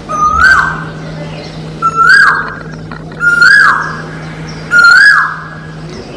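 Parrot giving four whistled calls about a second and a half apart, each a short held note that rises and then swoops down. A steady low hum runs underneath.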